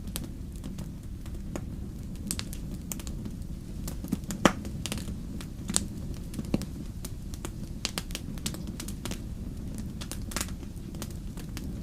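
Wood fire crackling, with irregular sharp pops and snaps, the loudest about four and a half seconds in, over a steady low rumble.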